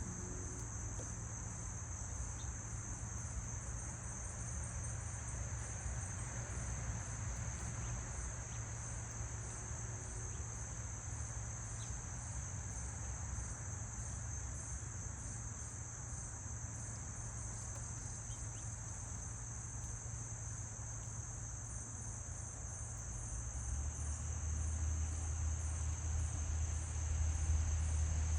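A steady, high-pitched chorus of insects trilling without a break. A low rumble grows louder near the end.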